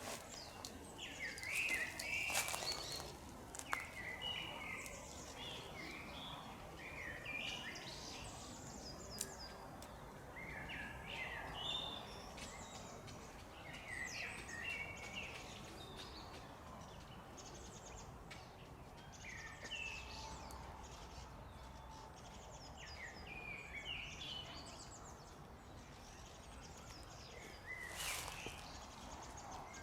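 Small birds calling with many short chirps, scattered through the whole stretch over a faint outdoor hiss. A couple of brief sharp noises stand out about two seconds in and near the end.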